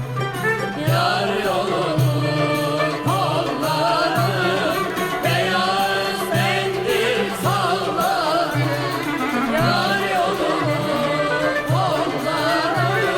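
Turkish fasıl music played between sung verses: an ornamented, wavering melody over a steady, repeating low beat.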